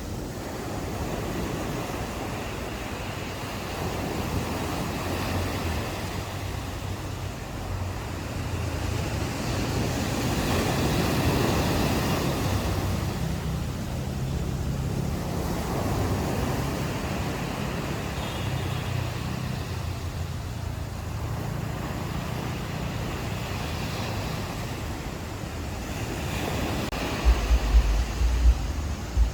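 Ocean waves washing onto a beach, the surf swelling and easing every few seconds. Wind buffets the microphone in gusts near the end.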